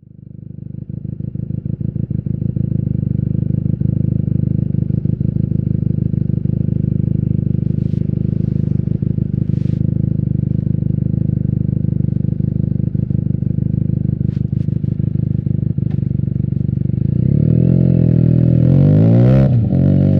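Benelli TNT 300's parallel-twin engine idling steadily through an Austin Racing aftermarket exhaust, then revved up and down several times near the end.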